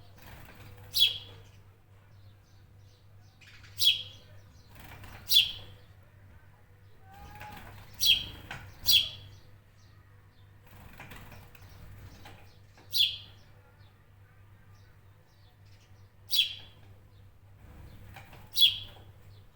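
A bird repeating short, sharp chirps that sweep quickly downward in pitch, about one every two seconds with a quick cluster of three near the middle, over a steady low hum.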